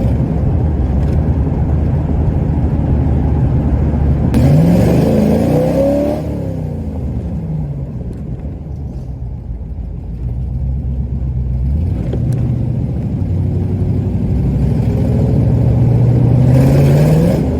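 Car engine running through freshly repaired side-pipe exhaust while driving. The engine note climbs hard about four seconds in and then drops away, eases off for a few seconds, then builds steadily again and climbs near the end.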